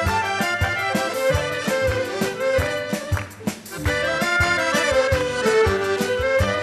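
Instrumental Albanian Shkodër folk music: an accordion plays the melody over a steady drum beat. The music thins out briefly about three seconds in, then comes back.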